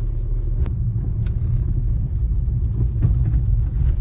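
Skoda Laura's front axle (driveshaft) clicking as the car turns, a few irregular 'kad kad' knocks over the low rumble of the moving car: the knocking of a worn original axle, one of whose boots is leaking.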